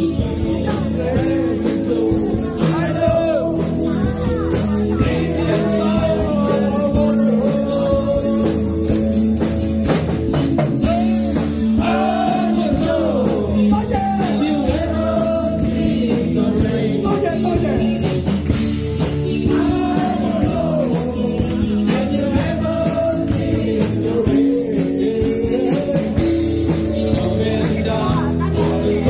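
Live band playing a rock song, with a voice singing over the steady accompaniment.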